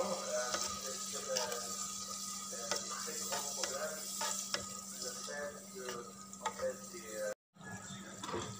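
Ground spice paste sizzling in oil in a Lombok earthenware cooking pot, sautéed until fragrant while a silicone spatula stirs it, scraping and tapping against the pot. The sound cuts out for a split second near the end.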